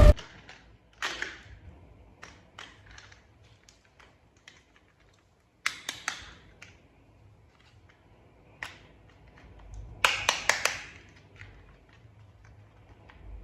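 Small plastic toy parts clicking and tapping as they are handled and fitted together. There are scattered single clicks, a short cluster about six seconds in, and a quick run of four or five clicks about ten seconds in.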